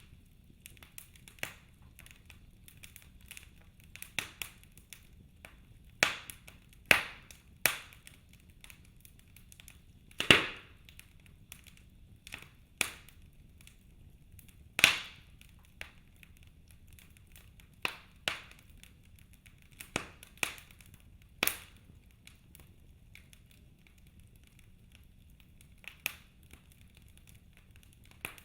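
Wood fire in a fireplace crackling, with sharp pops coming irregularly a second or more apart over a faint low hiss; the loudest pops come about ten and fifteen seconds in.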